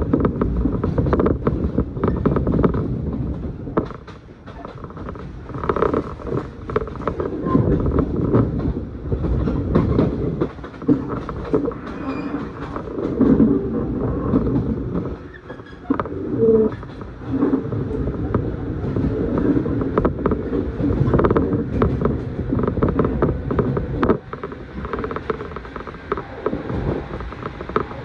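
Inside a moving passenger train: the steady rumble of wheels on rail, rising and falling, with the car body creaking and scattered short knocks.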